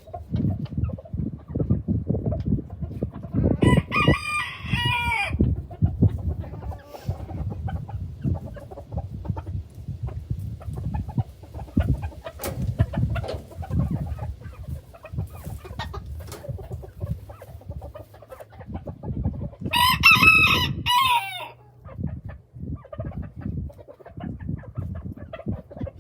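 Chickens clucking in a chicken yard, with a rooster crowing twice: once a few seconds in and again later, each crow about a second and a half long, trailing off in pitch.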